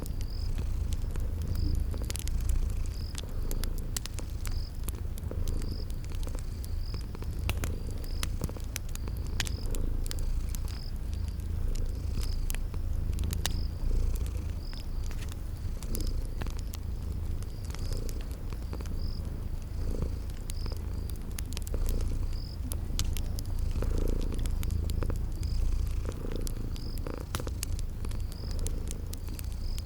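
Domestic cat purring steadily and deeply. Over it, a fire crackles with scattered sharp pops, and crickets chirp about once a second.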